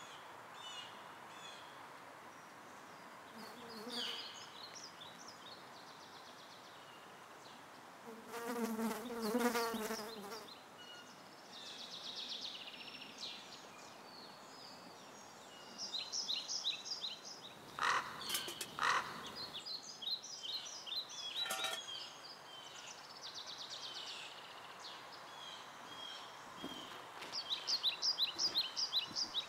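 Summer forest ambience: small birds chirping and trilling in short repeated phrases over a steady hiss. A louder, lower call comes about eight seconds in, and two sharp snaps about eighteen seconds in.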